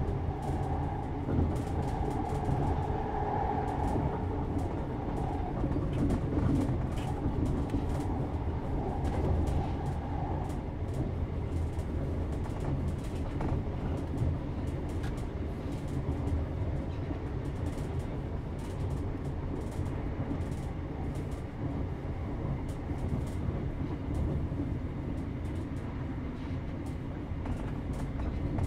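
Interior of a British Rail Class 321 'Renatus' electric multiple unit on the move, heard from the rear of a coach: a steady low rumble of the running gear on the track with many light clicks. A higher hum is there at first and fades out about ten seconds in.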